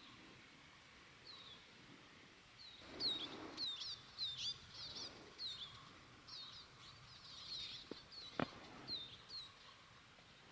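Small songbirds chirping: many short, high, downward-sliding calls, busiest in the middle. A single sharp click a little past eight seconds.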